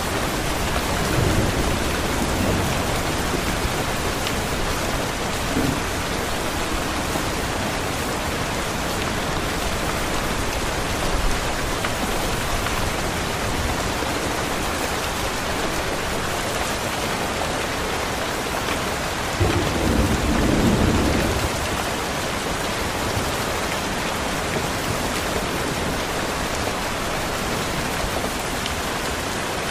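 Steady, dense rain hiss. Louder low rumbles rise through it about a second in and again around twenty seconds in.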